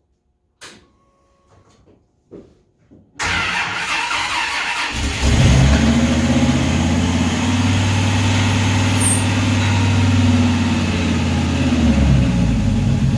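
A rebuilt V10 truck engine on its first start: a few faint clicks, then the starter cranks for about two seconds and the engine catches about five seconds in, running steadily through its full exhaust. The revs drop near the end, enough to sound as if it might stall.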